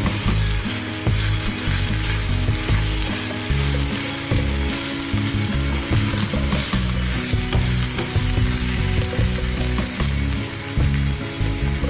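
Brinjal pieces sizzling as they fry in oil in a nonstick pan, turned now and then with a spatula.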